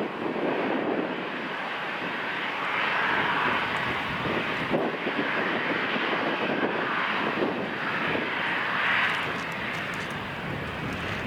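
Airliner engine noise, a continuous rush that swells and fades, with gusty wind buffeting the microphone.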